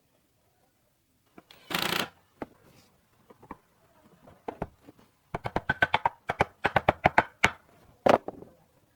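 Small handwork sounds on bamboo or wood: a short scrape, then a quick run of sharp clicks and taps, about six a second, and another scrape near the end.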